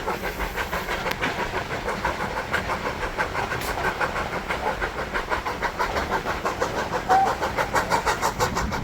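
Steam train running along with a rapid, even beat of about five a second.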